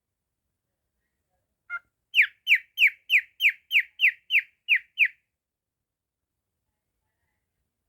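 Cockatiel calling: one short call, then a quick run of about ten loud, harsh calls, each falling in pitch, about three a second.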